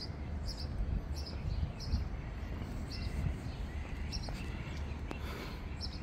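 A bird chirping with short, high, repeated calls over a steady low outdoor rumble.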